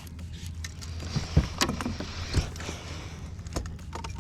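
Several short knocks and clicks of fishing gear being handled and stowed in a plastic kayak, over a steady low rumble.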